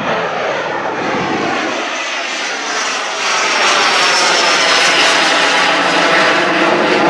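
Jet airliner passing by: a loud engine roar with a whine that slides slowly down in pitch, growing louder about three seconds in.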